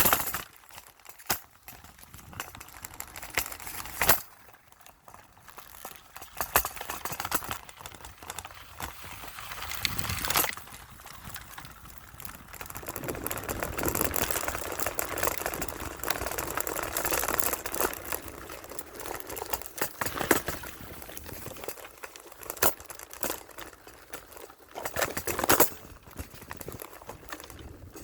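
River water running and splashing, with frequent sharp clicks through it and a louder rush for several seconds around the middle.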